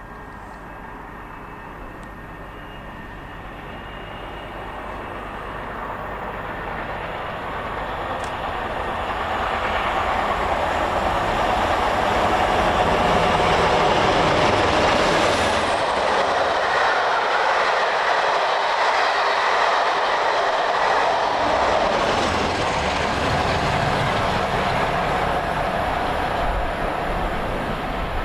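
British Rail Class 47 diesel-electric locomotive with its Sulzer twelve-cylinder engine working hard, approaching and passing at speed at the head of a passenger train. It grows steadily louder over the first dozen seconds, then stays loud as the coaches run past.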